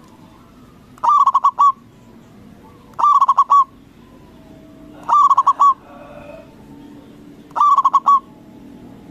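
Zebra dove (perkutut) singing its cooing song. There are four phrases about two seconds apart, each a quick run of notes lasting under a second.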